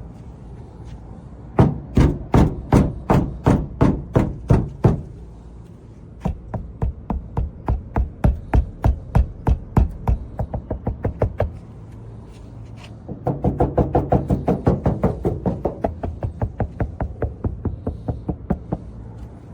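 Knuckles rapping repeatedly on car body panels lined with sound-deadening mat and foam, a test of how much the panel still rings. The knocks come in three runs, each a little faster than the last.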